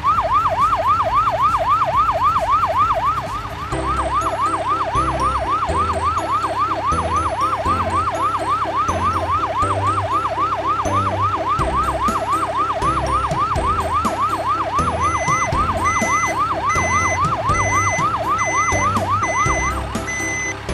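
Cartoon fire truck siren: a fast, even up-and-down wail of about three and a half sweeps a second. A low pulsing beat joins it about four seconds in, and a short high beep repeats about once a second in the last few seconds.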